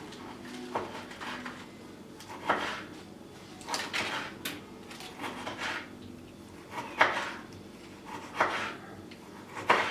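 Kitchen work sounds: a series of separate light knocks, clinks and short scrapes of dishes and utensils being handled, about one every second or so.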